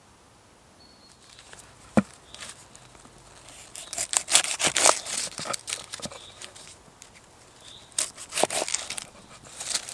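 Dry twigs and forest litter snapping, crackling and crunching, with one sharp snap about two seconds in and bursts of crunching around the middle and near the end.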